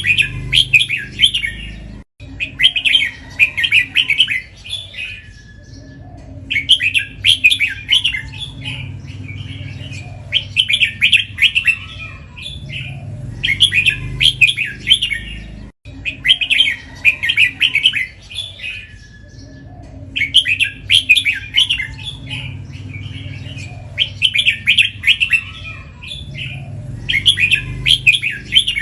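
Red-whiskered bulbul singing: short, quick warbled song phrases repeated every two to three seconds.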